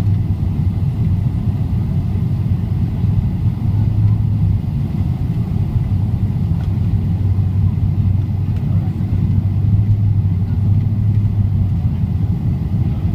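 Steady low rumble of a Boeing 777-300ER heard from inside the passenger cabin, engine and airflow noise, with no change in pitch or level.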